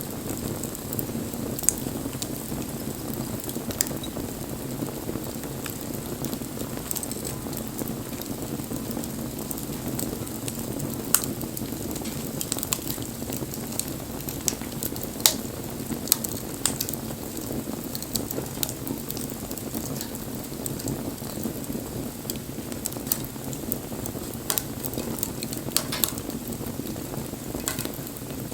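Wood fire burning, a steady low rush of flames under irregular crackles and pops of the burning wood, with a few louder pops scattered through.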